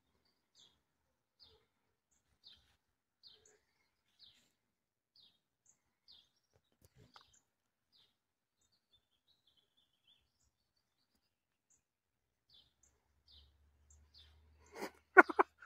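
A bird chirping faintly: a short, high, falling chirp repeated about once a second, with a brief pause before it picks up again. A few loud clicks come near the end.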